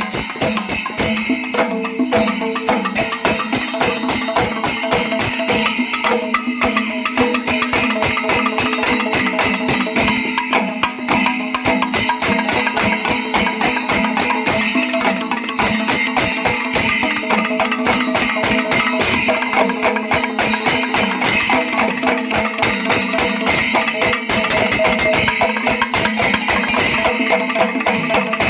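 Kerala temple melam in full swing: percussion ensemble of drums and clashing hand cymbals playing dense, rapid strokes over a steady held tone.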